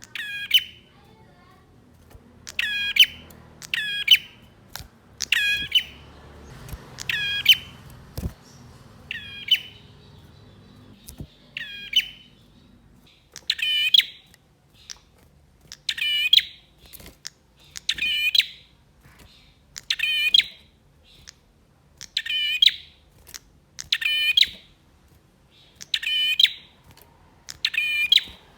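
A male prinia (prenjak) singing loud, sharp chirping phrases over and over, one every second or two, in full, excited song.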